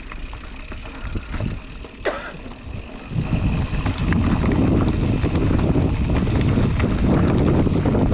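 Mountain bike (a Specialized Chisel hardtail) rolling down a dirt trail, with tyre rumble, drivetrain rattle and wind buffeting the action-camera microphone. It gets much louder about three seconds in as the bike picks up speed.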